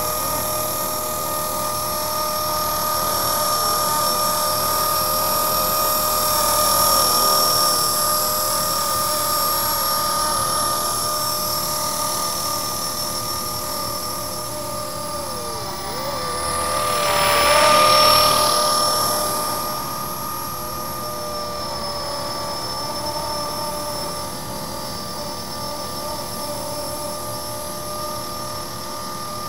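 Blade SR electric radio-controlled helicopter hovering: a steady high-pitched whine of the motor and spinning rotor. It swells louder for a couple of seconds a little past the middle, then settles back.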